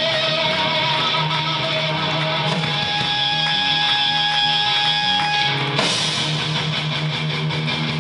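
Rock band playing live through an instrumental passage with no vocals: distorted electric guitar over a steady bass line, one long held guitar note in the middle, and the band changing to a fuller, busier part just before the end.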